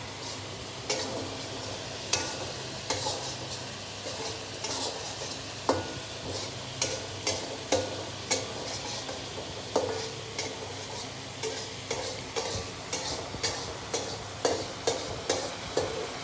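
Chicken and onions frying in a large pot with a steady sizzle, while a ladle stirs and scrapes, knocking against the pot every second or so with short ringing clanks.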